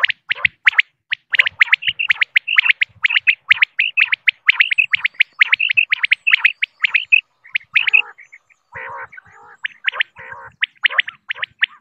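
Female common quail calling: a quick run of short, high call notes, about four a second. About eight seconds in they give way for a couple of seconds to softer, lower rasping notes, then the quick calls resume.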